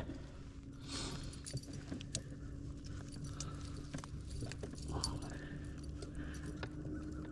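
Electric trolling motor on a kayak switching on and running with a steady hum, with light clicks and rattles of gear being handled over it.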